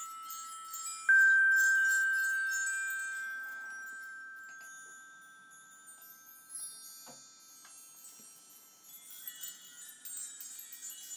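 Meditation chimes: a single clear metallic tone is struck about a second in and rings out, fading slowly, over a high shimmer of tinkling chimes. The tinkling thins to a few soft taps midway, then swells again near the end.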